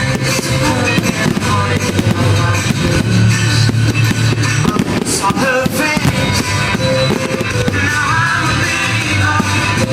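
Rock music playing loudly over a fireworks display's sound system, with the bangs and crackles of exploding fireworks scattered through it.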